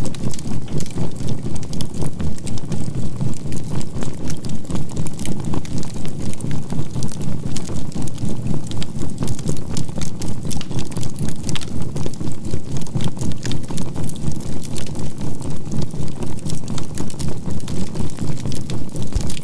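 Synthesized healing tone with a binaural beat, a low hum that swells and fades about three to four times a second, over the steady crackle of burning charcoal in a fire.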